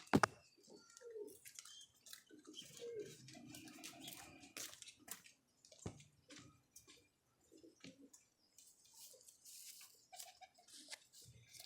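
Faint pigeon sounds: brief soft coos among scattered clicks and scuffles, with a sharper click just after the start and another about six seconds in.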